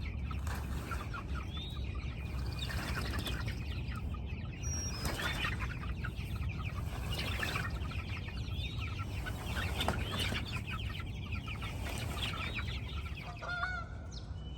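A flock of chickens clucking and calling continuously, many short rising calls overlapping, over a steady low rumble.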